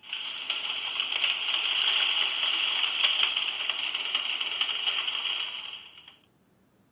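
Small speaker of a children's sound book playing a recorded sound effect: a steady, fairly loud hiss with fine crackling that starts suddenly and fades out after about six seconds.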